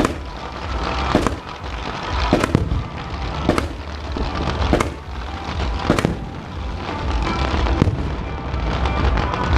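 Fireworks display: aerial shells bursting with sharp bangs roughly once a second, giving way near the end to a denser run of smaller crackling pops, over music with a steady bass.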